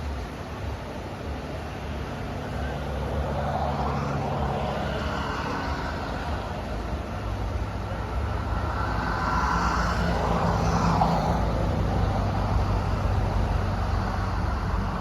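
Road traffic: two cars pass by, one swelling and fading about four seconds in, the next about ten seconds in, over a steady low rumble.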